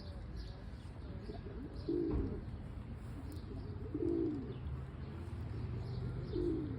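Feral pigeon cooing: three low hooting coos about two seconds apart.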